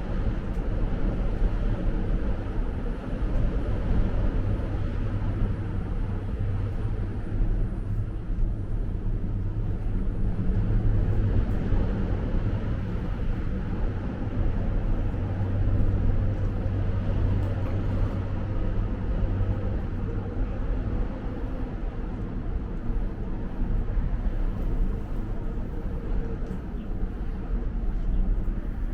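Steady traffic noise: a constant low rumble of vehicles with no single event standing out.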